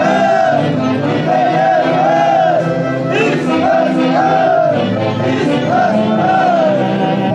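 Live Andean festival orchestra playing a melody of held, wavering notes over a steady accompaniment.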